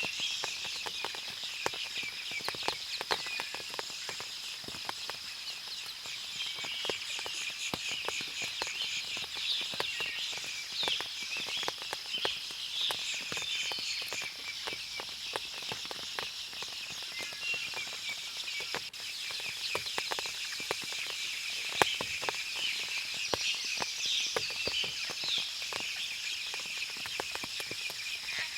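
Forest ambience after rain: many small birds chirping and twittering throughout, with frequent small clicks of water dripping from the foliage and a steady high-pitched drone beneath.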